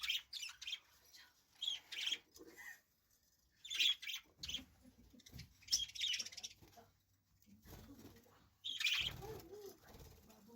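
Budgerigars chirping and chattering in short bursts, one every second or two.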